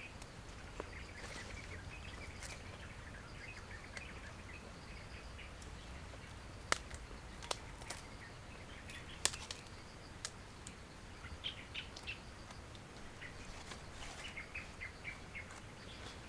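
Small birds chirping in short scattered bursts, with a few sharp clicks or cracks in the middle, the loudest three coming close together.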